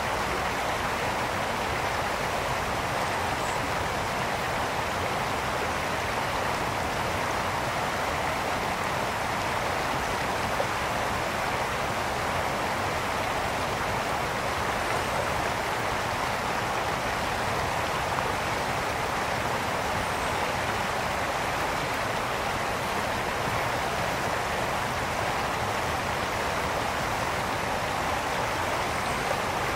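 A brook flowing steadily: an even, unbroken rush of water.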